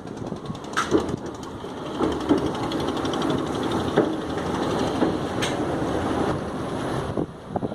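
A train running on the rails of the Pamban railway bridge: a steady rumble with a few sharp knocks at uneven intervals.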